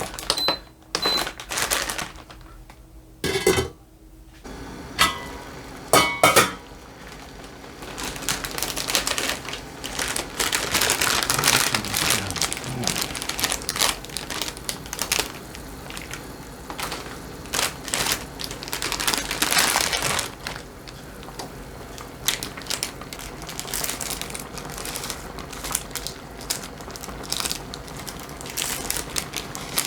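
Crinkling and rustling of plastic instant-ramen packaging being handled and opened, with scattered sharp knocks and clicks of kitchen things.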